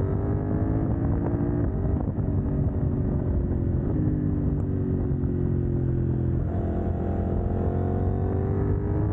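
CF Moto 800NK motorcycle's parallel-twin engine, catalytic converter removed, running under way. The engine note sinks slowly, then jumps higher about six and a half seconds in and sinks again.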